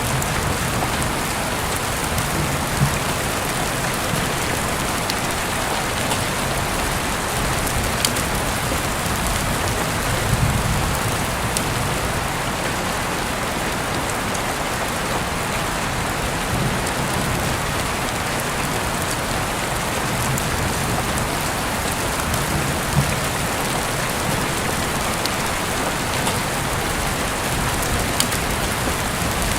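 Heavy rain falling steadily, heard through an open window, with a few sharper drops tapping now and then.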